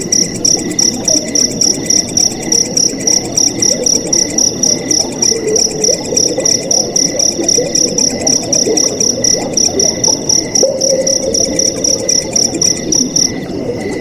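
Crickets chirping in fast, even pulses, a high trill that stops near the end, over the steady rush of flowing water.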